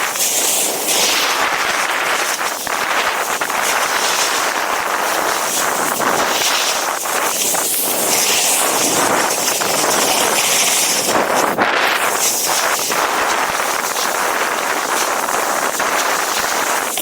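Snowboard sliding over snow, a continuous loud scraping hiss, mixed with strong wind rushing over the microphone.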